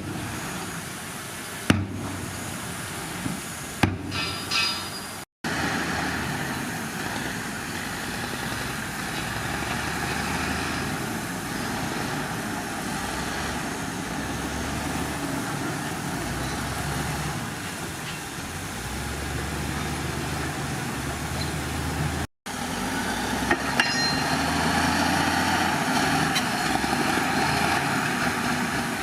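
Heavy diesel earthmoving machinery running steadily, with a few sharp metal knocks in the first four seconds. The sound drops out abruptly twice, about five seconds in and again after about twenty-two seconds.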